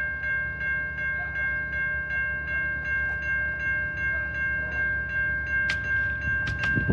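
Railroad grade-crossing warning bell ringing at about three strikes a second over the low rumble of a train. Near the end sharp metallic clicks come in and the train's rumble grows louder.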